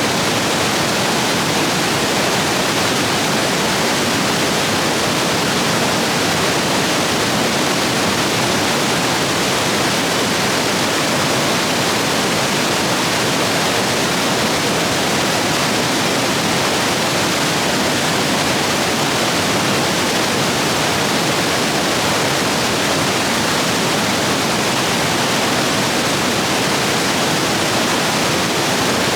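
Rain-swollen stream rapids rushing over rocks, a loud, steady, unbroken roar of water.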